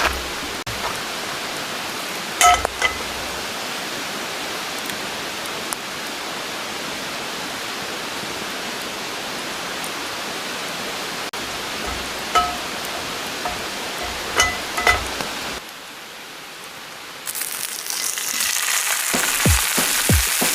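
Steady hiss with a few ringing metal clinks of cookware. After a brief quieter gap, food starts sizzling loudly in a hot pan near the end.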